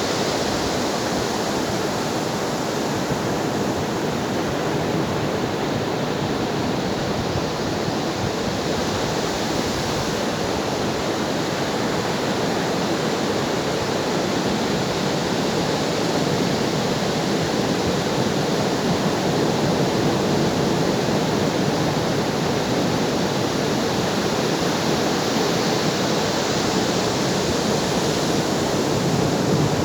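Ocean waves breaking on a shore: a continuous rush of surf that grows a little louder in the second half.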